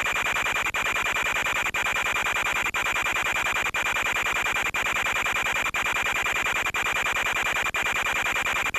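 Harsh, steady electronic buzz and hiss with a constant high whine, typical of the audio on an FPV video feed. It cuts out for an instant about once a second.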